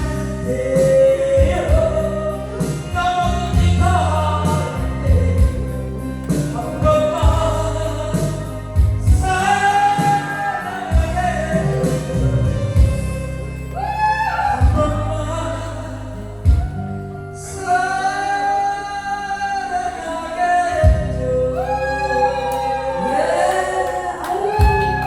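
A voice singing a melody over instrumental backing music.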